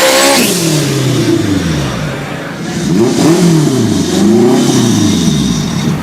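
Turbocharged Honda Civic four-cylinder engine: its revs fall away from a high pull over the first couple of seconds, then it is revved up and let drop twice.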